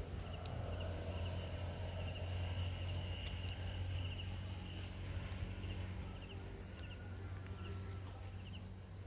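Outdoor ambience: a small animal chirping at a high pitch in short repeated groups over a steady low hum, with a few sharp clicks.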